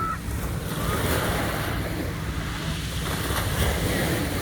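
Black Sea surf washing steadily onto the shore.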